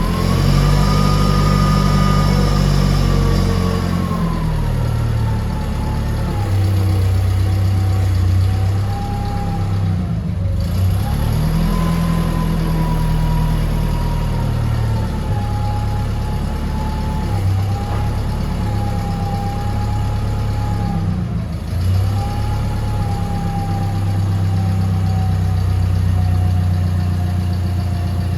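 Hyster LPG forklift truck running, with a steady engine note and a high whine that rises and falls in pitch. The whine drops sharply and recovers twice, about ten seconds in and again about twenty-one seconds in.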